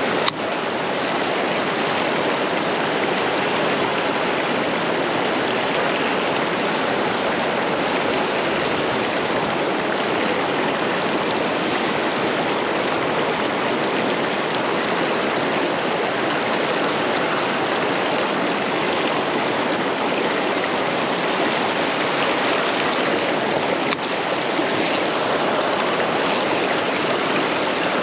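Fast-flowing stream water rushing steadily, with a brief click near the end.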